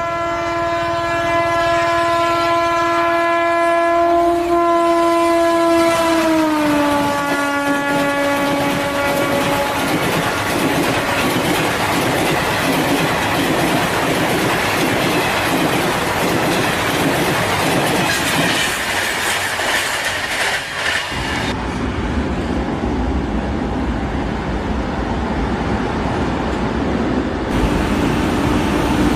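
An electric locomotive's multi-tone horn is held for about seven seconds and drops in pitch as the train passes, then fades. The coaches of an express train follow at speed with a rush and clickety-clack over the rail joints, and about 21 seconds in the sound shifts to a deeper rumble.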